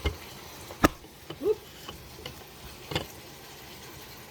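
A few sharp knocks and clicks of kitchen clatter, the loudest about a second in, with a short rising squeak between them.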